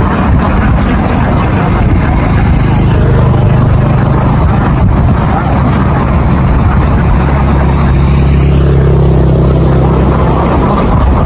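A motor engine running steadily with a low, continuous hum, its pitch shifting slightly about two-thirds of the way through.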